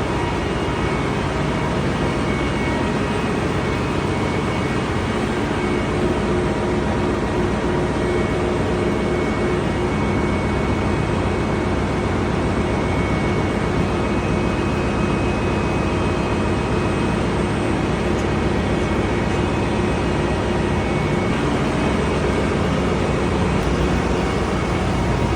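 Steady drone of a ship's engine room, with the diesel generators running and no break or sudden event.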